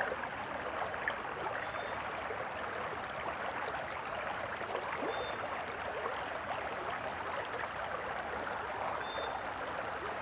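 Creek water running over rocks: a steady rushing babble. Faint short high chirps repeat every few seconds above it.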